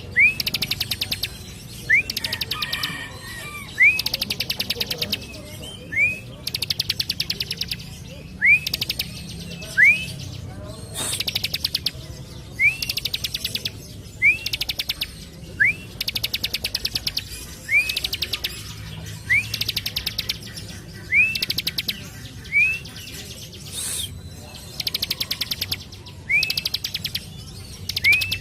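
Bar-winged prinia (ciblek) singing its loud song over and over. Each phrase is a short rising whistle followed by about a second of very fast, high rattling notes, repeating roughly every two seconds.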